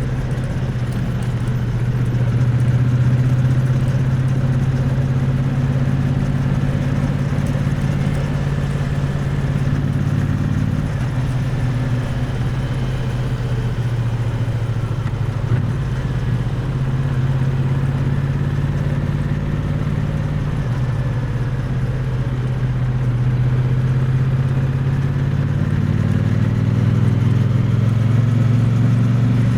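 Exhaust note of a Triumph Bonneville T100's parallel-twin engine, heard close up, running steadily at low revs while the bike is ridden, its pitch dipping slightly about halfway and rising a little near the end. A brief click about fifteen seconds in.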